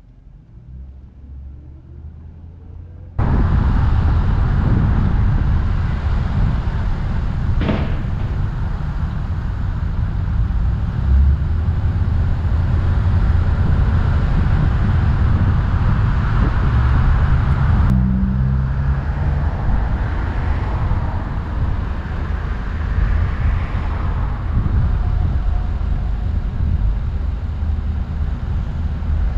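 Ford Crown Victoria Police Interceptor on the move: a steady, loud rumble of engine and road noise that cuts in abruptly about three seconds in, after a few quieter seconds. A single brief knock comes about eight seconds in.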